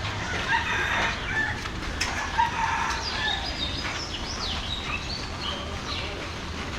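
Birds chirping and calling, a series of short rising and falling calls, over a low, steady street background.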